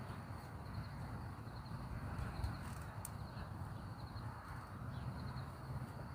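Outdoor ambience: a steady low rumble with faint, evenly repeated insect chirps and one small click about halfway through.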